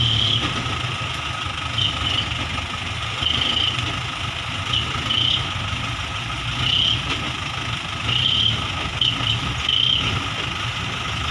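Truck engine running steadily at low revs, with short high-pitched squeaks recurring every second or two.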